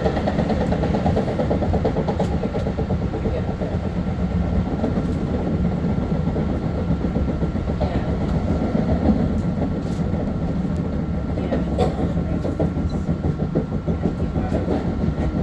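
LIRR M3 electric train running at speed between stations, a steady rumble of wheels on rail with a few sharp clicks from the track.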